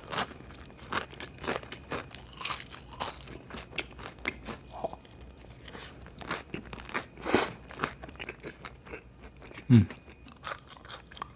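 Close-miked crunching and chewing of crispy fried fast food: many irregular sharp crunches as bites are taken and chewed. A brief low mouth sound, falling in pitch, comes near the end.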